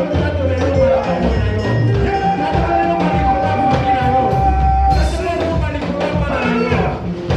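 Live worship band playing upbeat music with a steady drum beat and singing, with a long held note in the middle.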